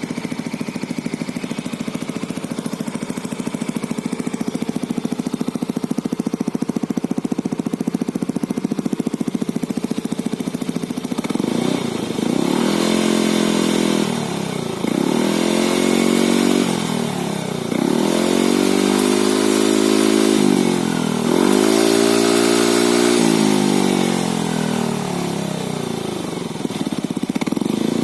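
Yamaha NMAX scooter's single-cylinder engine, breathing through an AG Tuned full-stainless PowerBoom aftermarket exhaust with its DB killer fitted. It idles steadily for about eleven seconds, then is revved about four times, each rev rising and falling in pitch. It drops back toward idle and starts to rise again near the end.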